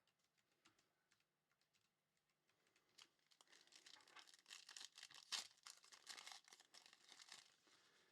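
A foil trading-card pack wrapper being torn open and crinkled by hand, starting about three seconds in after a quiet stretch and dying away near the end.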